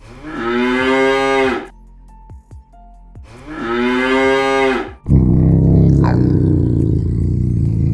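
Two long, moo-like animal calls, each held about a second and a half, a few seconds apart. About five seconds in, a loud, low rumbling sound cuts in abruptly and runs on.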